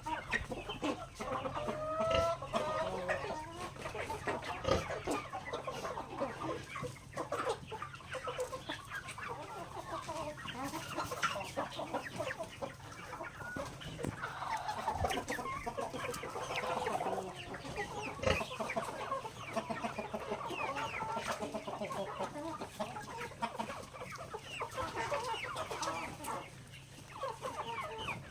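A flock of native chickens clucking continuously while pecking at grain, with many quick sharp pecking taps among the calls.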